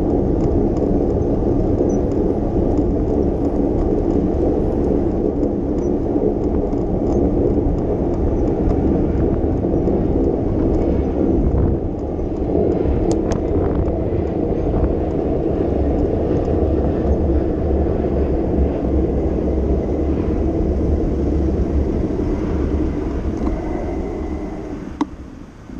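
Steady low rumble of wind and road noise picked up by a camera riding along on a bicycle. It fades somewhat near the end, with one sharp click just before.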